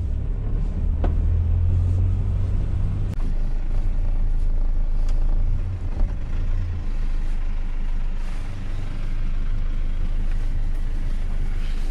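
Luton van driving on the road: a steady low engine and road rumble with a few light knocks and rattles.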